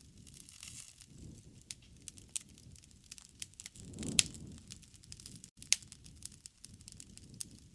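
Wood campfire crackling: scattered sharp pops over a low rush of burning, which swells briefly about four seconds in with one loud pop.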